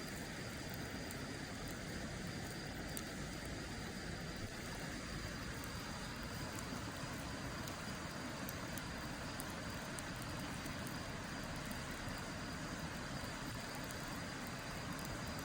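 Wood campfire burning, with faint scattered crackles over a steady rushing background noise and a thin steady high tone.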